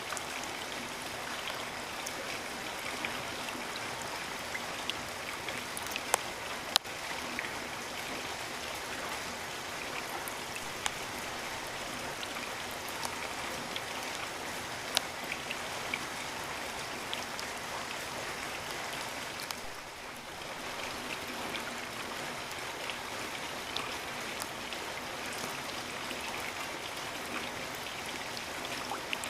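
Steady rain falling, with scattered sharp drops striking nearby surfaces, a couple of them louder about six and seven seconds in.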